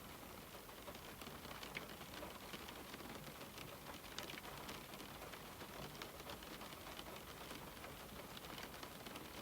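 Steady rain falling on a window, a soft even hiss with many small scattered drop ticks.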